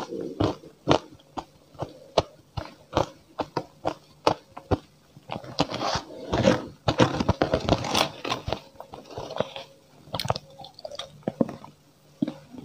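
Close-miked chewing with sharp crunching clicks about two a second, from a mouthful of matcha-powdered ice. In the middle a metal spoon scrapes through the powder in a plastic tray, then the crunching resumes.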